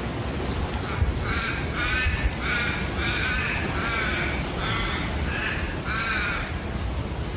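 An animal giving about nine short, harsh calls in a row, roughly two a second, over a steady low rumble.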